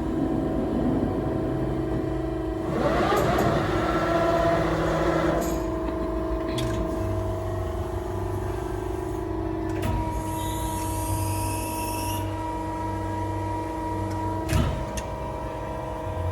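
Edwards Pearson press brake running: a steady hum of several tones, with a hissing surge about three seconds in and a whine that rises and falls about ten seconds in. A few sharp clicks and a short thump near the end stand out over the hum.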